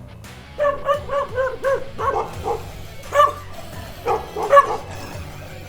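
A dog barking repeatedly, in quick runs of several barks with short gaps between them.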